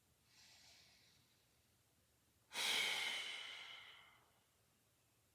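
A person taking a big breath during an exercise hold: a faint inhale, then about two and a half seconds in a loud exhale that starts suddenly and fades away over about a second and a half.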